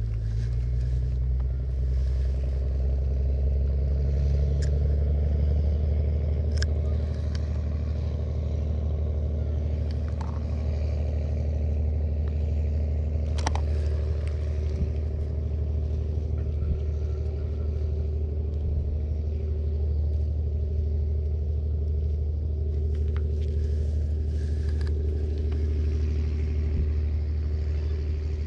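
A motor vehicle's engine running steadily with a low hum, with a few light clicks and knocks over it.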